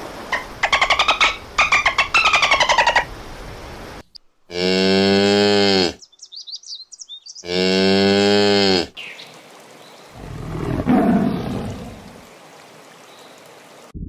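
A dolphin's rapid clicking with whistles for the first few seconds, then a calf mooing twice, two long calls of about a second and a half each, followed by a softer rough sound near the end.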